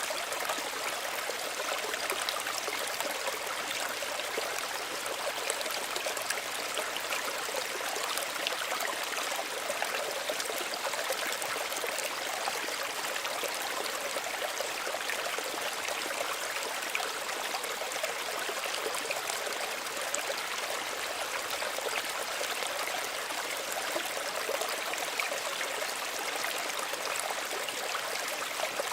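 Small stream running over stones, a steady, even babble and trickle of water.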